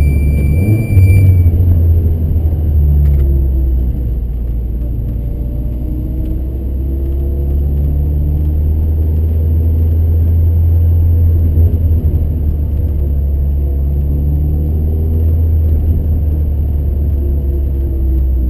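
Cabin sound of a Seat Ibiza FR's 1.8-litre turbocharged four-cylinder engine at low speed, a deep steady drone whose pitch rises and falls gently with light throttle. A brief high squeal sounds in the first second.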